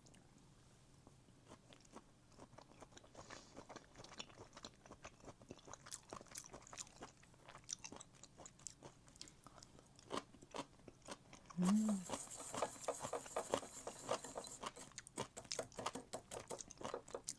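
Close-miked chewing of raw seafood, with many wet smacking clicks that get louder and denser from about twelve seconds in.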